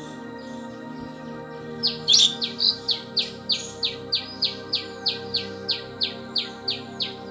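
Indian palm squirrel chirping: a rapid, even series of sharp high chirps, about three a second, starting about two seconds in, over soft steady background music.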